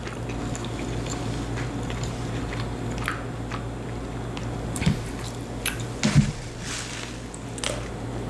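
A person chewing and biting into fried chicken fingers close to the microphone, with wet mouth clicks and squishy chewing. The loudest clicks come about five and six seconds in, over a steady low hum.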